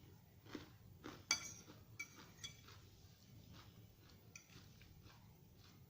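Faint eating sounds: cutlery clicking and clinking against a dish as a salad is eaten, the loudest a ringing clink about a second in, with soft chewing.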